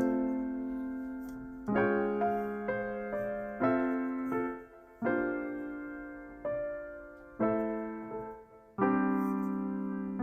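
Background music: slow piano, single notes and chords struck every second or two and left to fade.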